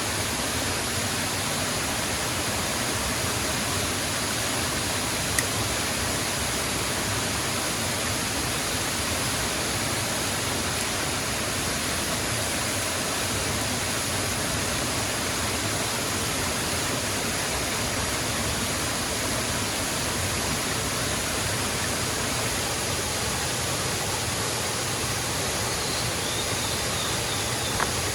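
Waterfall rushing steadily, a constant even roar of falling water, with one small click about five seconds in.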